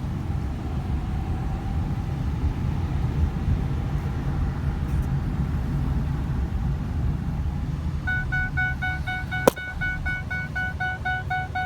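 Ford Explorer Sport Trac's 4.0-litre V6 idling, heard from inside the cab. About eight seconds in, a dashboard warning chime starts repeating rapidly, the reminder that the driver's seatbelt is not fastened, with one sharp click shortly after.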